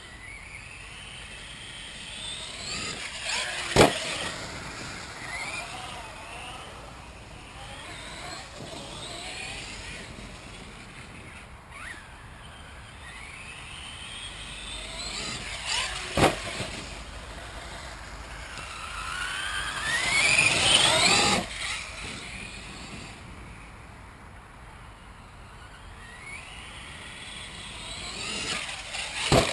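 Electric motor and drivetrain of a radio-controlled HPI Savage Flux truck whining, the pitch rising and falling as it speeds up and slows, with its longest and loudest burst of speed about 20 seconds in. Three sharp knocks stand out, about 4, 16 and 29 seconds in.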